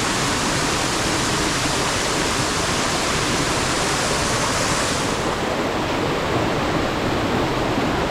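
Waterfall's rushing water, a steady loud hiss of falling water with no pauses. The sharpest part of the hiss fades a little about five seconds in.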